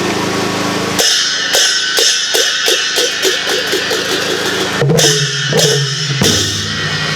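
Isan klong yao long-drum band starting up about a second in: steady drum beats with cymbal crashes, about two strokes a second, over a steady hum. A low plucked bass note joins near the end.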